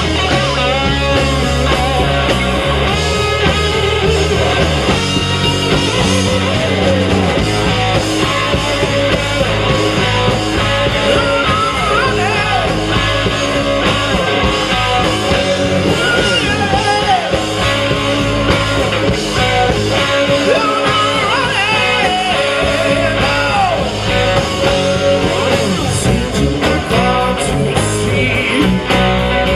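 Rock band playing live: electric guitar and bass with a singing voice over them.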